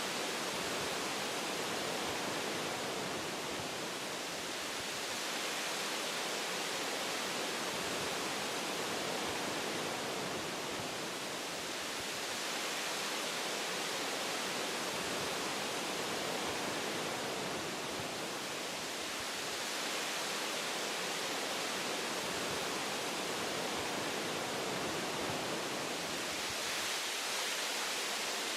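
Wind blowing through forest branches: a steady rushing hiss that swells and eases every few seconds.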